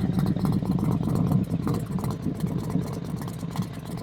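A vehicle engine running steadily at low revs, a low rumble with fast, even pulsing.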